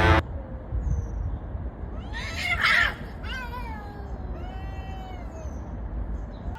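Cats fighting: a loud, harsh screech about two seconds in, followed by several drawn-out, wavering yowls rising and falling in pitch.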